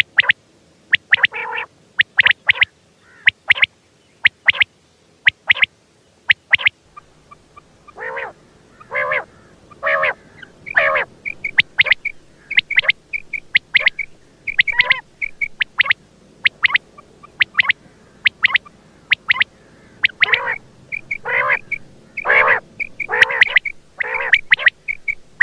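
Quail calling over and over: sharp, clipped notes in quick groups of two or three, mixed with lower, harsher calls and soft chirps.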